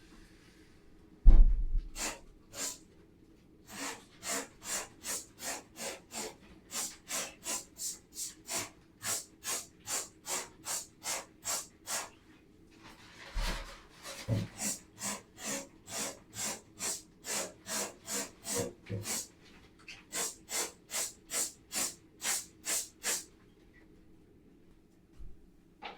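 Brush scrubbing a surface in steady back-and-forth strokes, about two a second, pausing twice. A thump about a second in is the loudest sound, and a softer one comes about halfway through.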